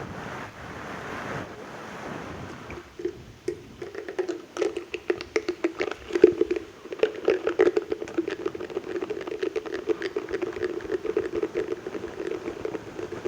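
ASMR mouth sounds close to the microphone: breathy air at first, then from about three seconds in a rapid, continuous run of wet clicks and smacks.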